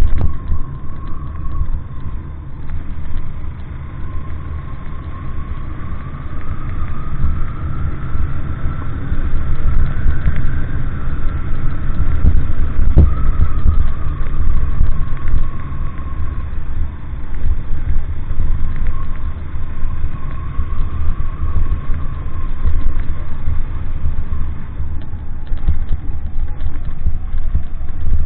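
Motor vehicle running on the move, a heavy low rumble with an engine tone that slowly rises and falls as the revs change.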